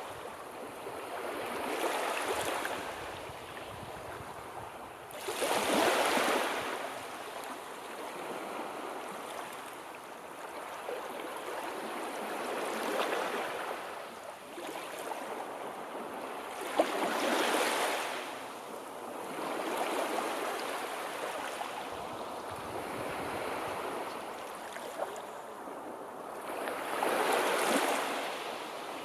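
Sea waves washing in and drawing back, the sound swelling and ebbing in a slow rhythm with the biggest surges about every ten seconds. A single short tick comes just as one surge builds.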